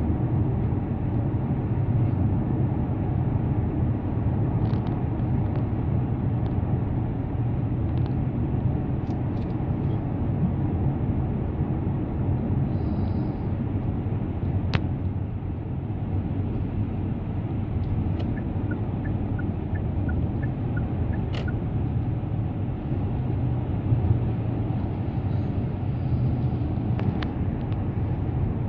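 Car driving at steady speed on an expressway: a low steady rumble of tyres and engine with road hiss, and a few faint clicks.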